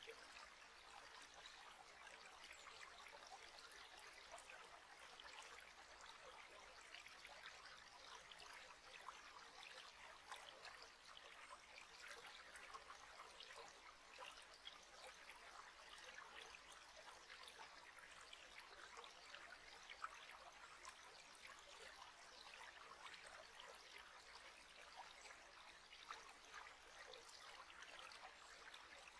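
Faint, steady trickling water, like a small stream.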